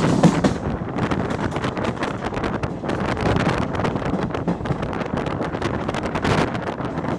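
Passenger express train rolling slowly into the station behind its WAP-4 electric locomotive, with a steady rumble and many short clicks from the wheels on the rails. Wind buffets the microphone throughout.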